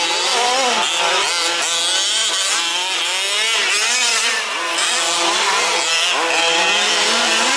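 Several 1/5th-scale RC off-road trucks' small two-stroke petrol engines racing together, buzzing and revving up and down at overlapping pitches as they accelerate and brake around the track.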